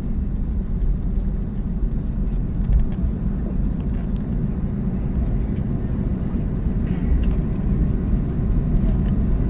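Steady low rumble inside the cabin of an Airbus A321neo taxiing, from its engines at low power and its wheels rolling on the taxiway.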